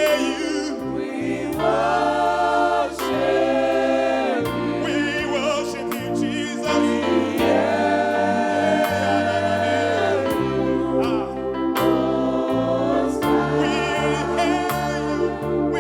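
Gospel choir singing a worship song with a band behind it, a stepping bass line and occasional drum and cymbal hits.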